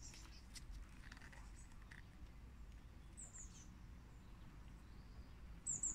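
Quiet outdoor ambience with a small bird chirping a few short, high notes, once about three seconds in and again near the end.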